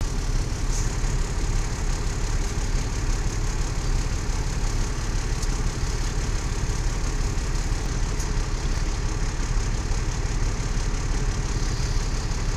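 Peterbilt 379 truck's diesel engine running steadily with an even low rumble.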